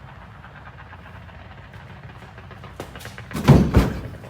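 Two heavy thumps close together about three and a half seconds in, after a couple of lighter taps: feet landing in the bed of a pickup truck at the end of a standing jump, over a steady low hum.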